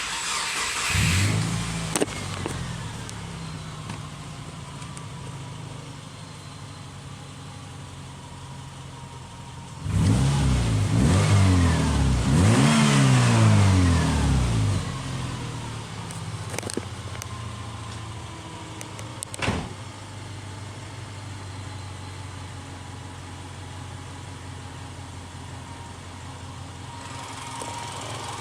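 Subaru Outback boxer engine idling steadily, revved up and down several times in the middle before settling back to idle. A sharp knock is heard about two-thirds of the way through.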